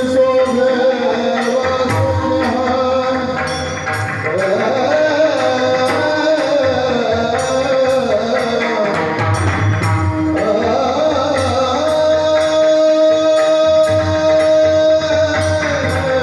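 Marathi devotional kirtan tune: long held sung notes that glide and waver in pitch over steady drum and percussion accompaniment.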